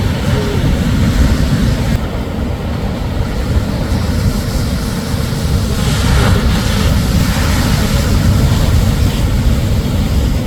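Shorebreak waves on a beach: a steady low rumble of surf, with a wave breaking and washing in about six seconds in.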